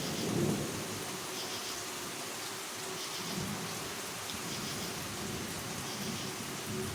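Steady rain falling, with low rumbles of thunder swelling now and then under it.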